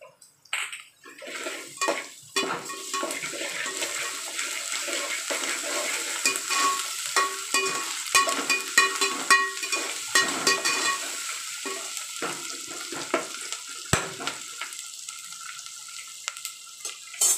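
Onions with freshly added ginger-garlic paste frying and sizzling in hot oil in a large aluminium pot, stirred with a metal spoon that scrapes and clicks against the pot. The sizzling is loudest for the first ten seconds or so, then dies down, and there is a single knock about fourteen seconds in.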